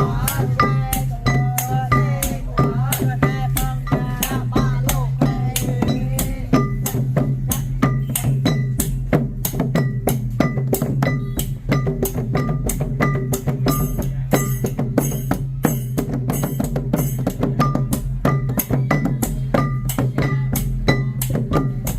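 Khmer festive percussion music: drums and small ringing cymbals keep a steady beat of about three to four strokes a second. A wavering melody rides over it for the first six seconds or so, then the beat continues alone.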